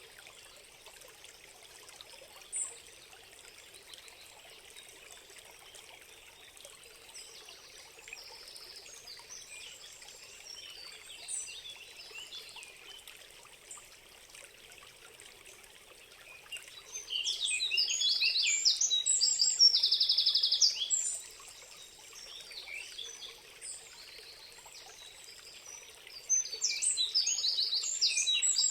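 Songbirds singing in quick trilling phrases over a steady trickle of running water. The birdsong is faint at first, turns loud for a few seconds about two-thirds of the way through, and turns loud again near the end.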